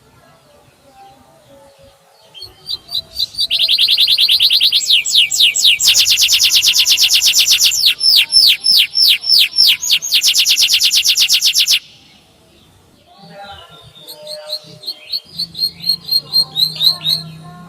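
Canary singing: a very fast high trill builds in, moves into runs of quick down-slurred whistles several to the second, then another rapid trill that cuts off abruptly. Softer, rising chirps follow near the end.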